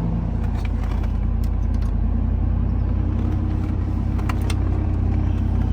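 V8 engine idling steadily just after a cold start, with the rush of its fan clutch fully locked in, as it is while the engine is cold.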